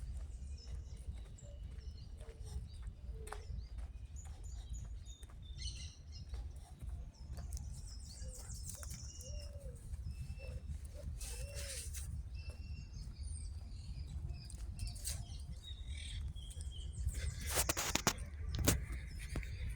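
Outdoor ambience of birds chirping and calling here and there, over a steady low rumble, with a few sharp clicks near the end.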